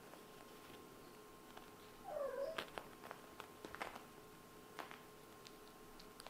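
A kitten gives one short meow about two seconds in, followed by a scatter of light clicks and taps.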